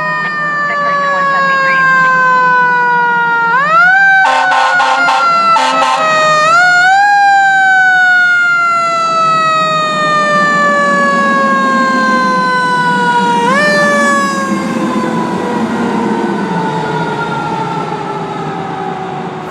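Fire engine siren winding slowly down in pitch and being brought back up several times. A burst of pulsing air-horn blasts sounds about four seconds in.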